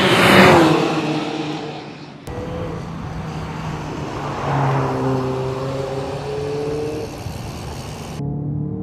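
Mercedes-Benz CLA 45 AMG's turbocharged four-cylinder engine at speed: the car passes close by about half a second in, its note dropping in pitch as it goes. After a sudden cut, the engine is heard pulling hard with its pitch rising.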